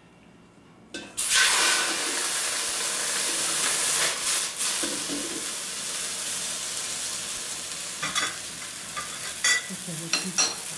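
Shrimp tails hitting a hot stainless steel pan and sizzling, starting suddenly about a second in and frying steadily after that as they sauté. A few light clicks come near the end.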